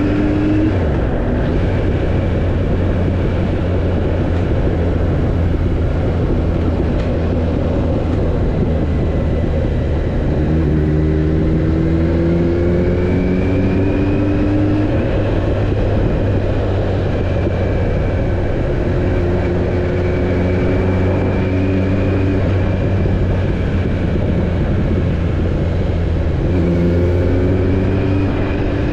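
Kawasaki Z900's inline-four engine running while riding. Its pitch rises and shifts in steps several times.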